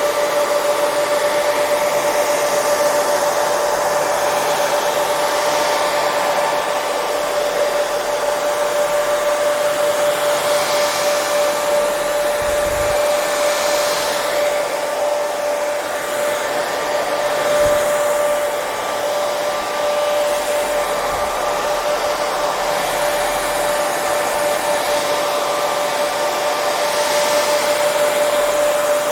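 Electric hair dryer running steadily: a continuous rush of blown air with a constant motor whine.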